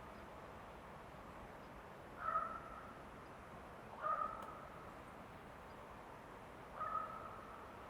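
A bird giving three short, harsh calls a couple of seconds apart, over a faint steady background hiss of forest ambience.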